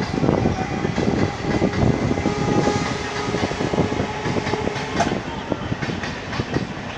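Train wheels clattering continuously over the rail joints as the train runs along the track.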